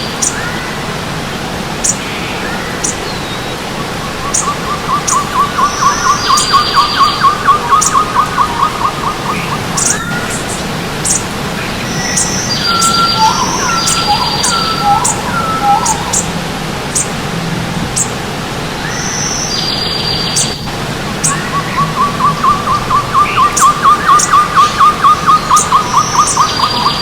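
Several forest birds singing over the steady rush of stream water. One bird gives a long, rapid trill twice, about five seconds in and again about twenty-one seconds in, while others repeat short high calls and thin chips.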